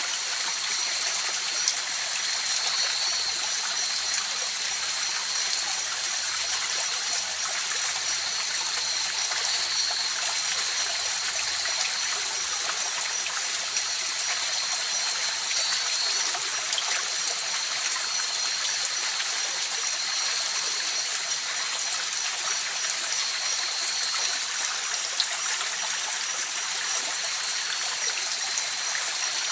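River water flowing and rushing steadily, an even hissing wash with no breaks. Two thin, steady high-pitched tones sit above it, the higher one pulsing rapidly.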